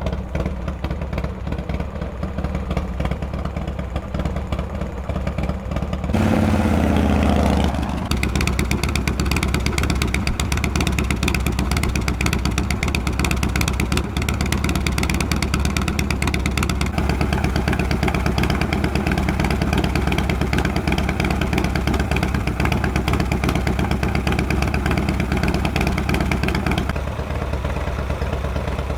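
Harley-Davidson FXR's V-twin engine running at idle, with one short rev about six seconds in that falls back to idle over a second or two.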